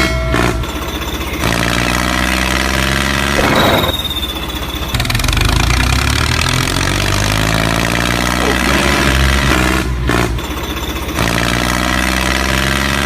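Tractor engine running steadily, its sound breaking off and changing abruptly a few times.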